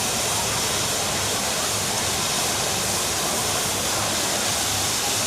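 Steady rush of falling water with a faint babble of distant voices behind it.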